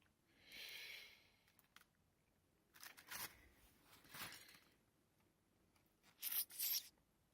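Faint rustling and crinkling of fireworks' plastic packaging being handled, in a few short bursts: one about half a second in, a couple in the middle and a louder one near the end.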